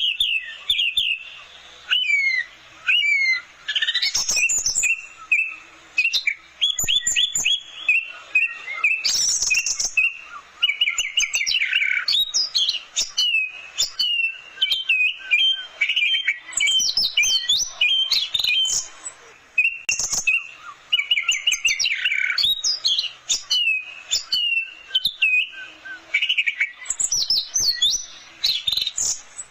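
Orange-headed thrush (anis merah) singing a fast, varied song of whistles, trills and chattering phrases, one after another with hardly a break.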